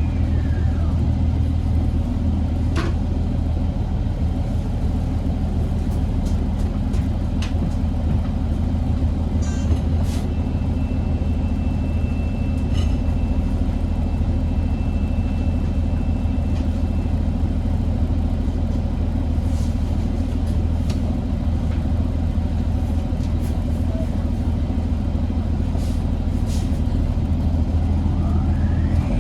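Inside an Orion VII NG hybrid bus, a steady low rumble from its Cummins ISB diesel engine, with light rattles and clicks from the cabin. The hybrid drive's whine falls away just after the start, as the bus comes to rest, and starts rising again at the very end as it pulls off.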